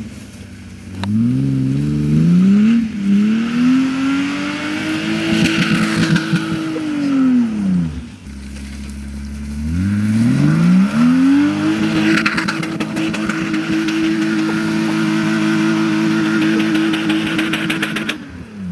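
BMW E36 325is straight-six revved hard twice. Each time the revs climb and are held high for several seconds before dropping, and a tyre screech sits over the engine: the rear wheels spinning while the car is drifted.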